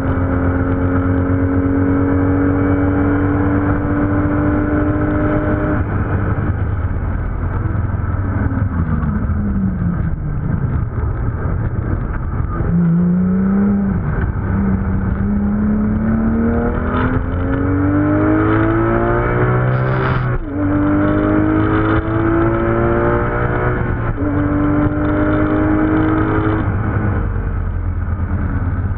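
Porsche 911 GT3's naturally aspirated flat-six heard from inside the cabin under hard track driving. The revs climb steadily in a gear, fall away as the driver lifts and downshifts, then climb again through several quick upshifts, with each shift a sudden drop in pitch. Near the end the engine note falls again on lift-off.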